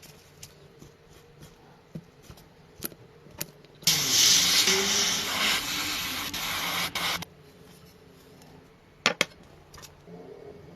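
A spray hissing for about three seconds, starting about four seconds in, with scattered light clicks and taps before and after it.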